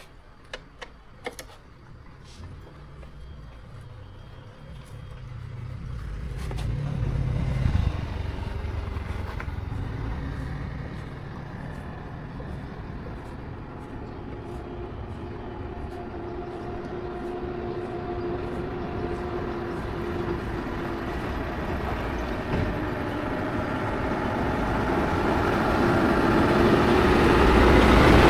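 A motor running steadily after a few clicks near the start; it swells about seven seconds in, settles with a steady hum, then slowly grows louder.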